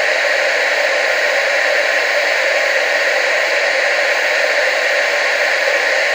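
Television static: a steady, even hiss with no pitch or rhythm, strongest in the middle and upper range and thin in the bass.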